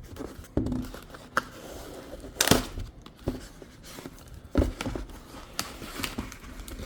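Cardboard packaging and packing foam being handled and opened: rustling and scraping, with a few sharp knocks, the loudest about two and a half seconds in and again near five seconds.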